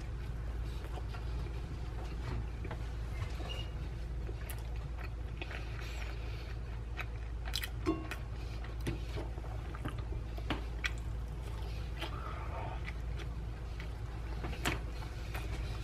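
Close-miked chewing and mouth sounds of a person eating a soft bread sandwich: scattered wet clicks and smacks over a steady low hum.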